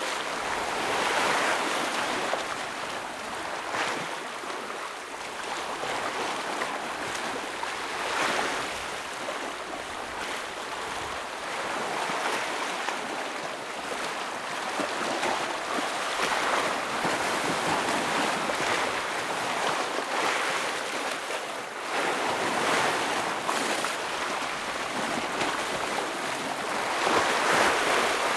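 Ocean waves breaking on rocks: a steady wash of surf that swells with each wave every several seconds and is loudest near the end.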